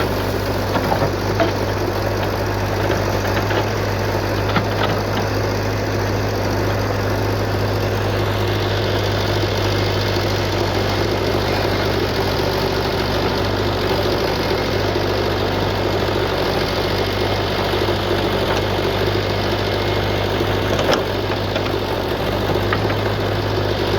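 Heavy diesel engine of earth-moving machinery running steadily at an even speed, a constant low hum throughout. A few faint clicks or knocks rise above it in the first seconds and once near the end.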